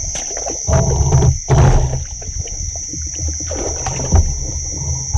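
Water sloshing and splashing with irregular knocks, loudest about a second in and again near 4 s, over a steady high drone of crickets and insects.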